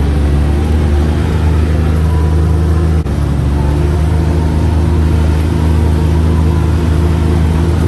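UTV engine running at a steady speed, heard from on board while riding: a low, even drone that dips briefly about three seconds in.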